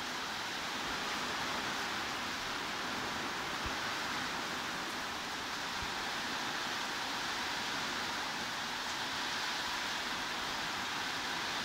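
Steady heavy rain, an even hiss with no single drops or changes standing out.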